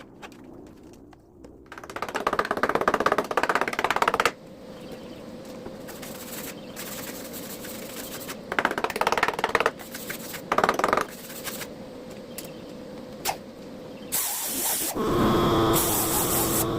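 Aerosol spray can of paint hissing in repeated bursts as it is sprayed onto a steel tractor rim: one long spray about two seconds in, then several shorter ones. A louder, different noise starts near the end.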